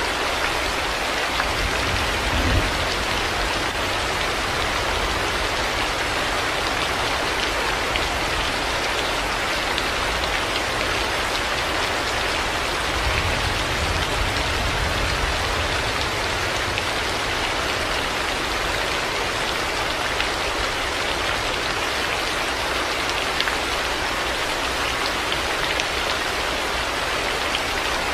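Heavy rain falling steadily, a dense even hiss of drops on surfaces. Brief low rumbles come through about two seconds in and again around thirteen seconds.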